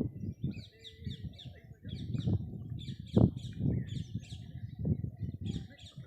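Birds chirping in quick, short repeated notes, over low rumbling noise, with a loud thump about three seconds in.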